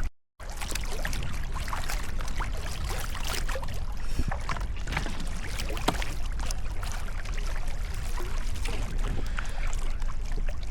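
Sea kayak paddling: the paddle blades dip and splash in the water over and over, with wind buffeting the microphone as a steady low rumble. The sound cuts out for a moment just after the start.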